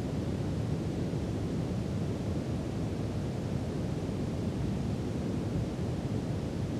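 Steady brown noise: an even, unbroken hiss weighted toward the deep end, with no changes.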